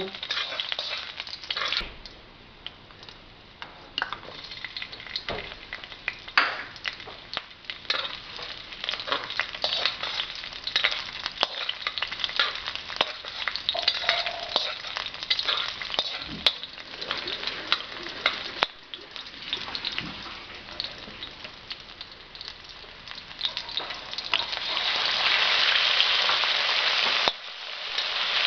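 Garlic, shallots and chicken pieces sizzling in hot oil in a stainless steel wok, with a metal ladle scraping and clicking against the pan as they are stirred. The sizzle grows much louder near the end, as the chicken pieces fry.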